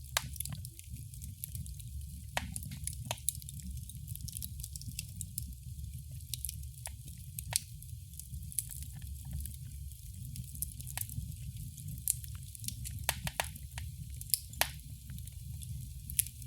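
Wood fire crackling in a fireplace: irregular sharp pops and snaps, a few bunched close together about two-thirds of the way through, over a low steady rumble of burning.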